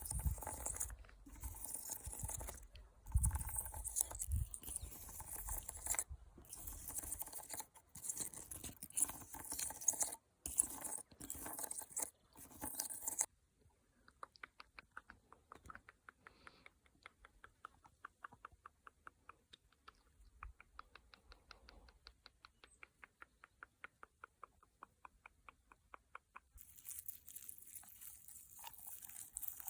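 Natural objects handled close to the microphone for ASMR: crinkly rustling, then from about halfway a long even run of quick light taps, several a second, then rustling again near the end.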